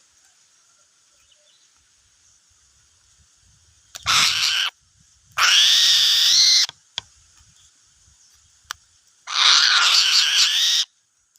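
An eagle giving three loud, harsh screeching calls, the middle and last ones each over a second long, with a couple of short clicks between them.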